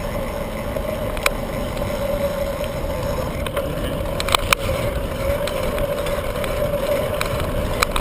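Wind and road noise on a bicycle-mounted camera while riding, with a steady hum and a few sharp clicks or rattles, two close together about four seconds in.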